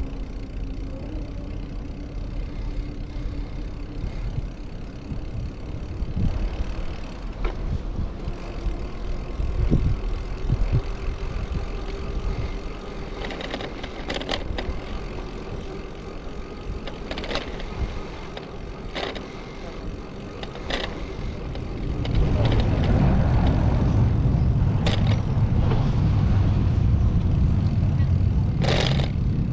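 Outdoor riding noise on a bicycle ride: a low rumble with passing car traffic and scattered clicks. The rumble grows much louder about 22 seconds in.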